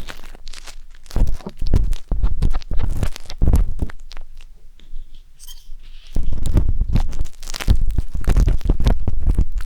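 Wooden skewers scraping and rubbing inside the silicone ears of a 3Dio binaural microphone: close, crackly scratching strokes with a deep rumble, quieter between about four and six seconds in.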